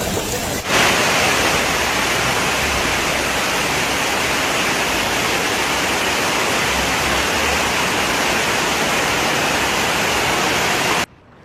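Loud, steady rushing of water that rises suddenly about a second in and cuts off abruptly near the end.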